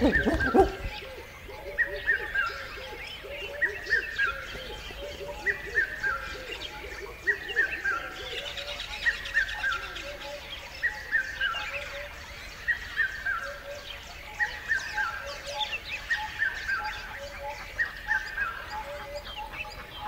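Forest bird chorus: one bird repeats a short falling call of two or three notes about every two seconds, over fainter calls of other birds. A brief loud low thump comes right at the start.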